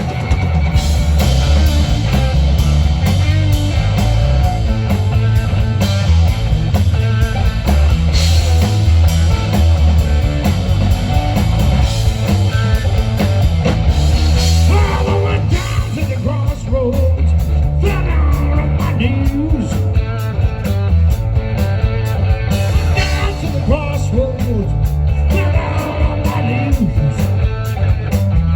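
Blues-rock band playing live, with a heavy bass and drum beat and guitar; a singer's voice comes in about halfway through.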